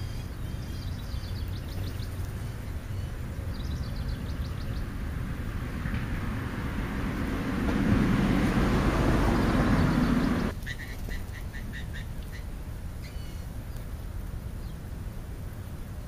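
Small birds chirping in short, quick trills. A rushing noise builds over a few seconds, is loudest around the middle, and cuts off abruptly. A rapid run of chirps follows.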